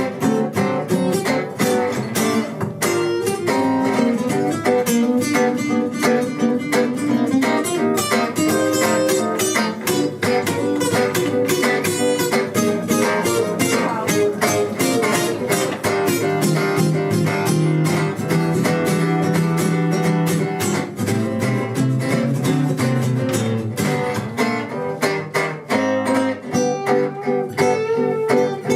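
Instrumental music led by acoustic guitar, plucked and strummed, in an instrumental break between sung verses.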